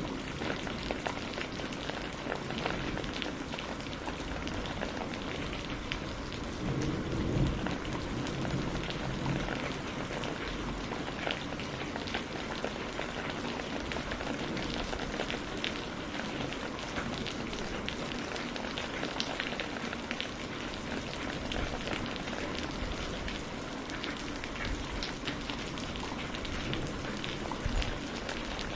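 Steady rain falling, with many separate drops pattering and ticking on a surface.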